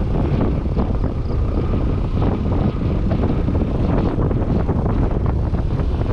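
Heavy wind buffeting on the microphone of a Yamaha NMAX 155 scooter at riding speed, with a steady low rumble of engine and road noise underneath.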